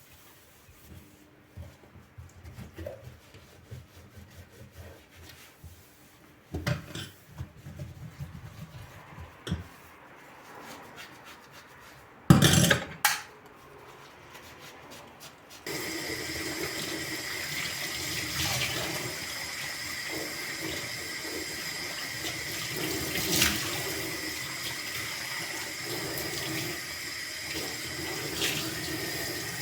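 A few knocks and clatters, two sharp ones the loudest, then about halfway through a kitchen tap is turned on and water runs steadily into the sink.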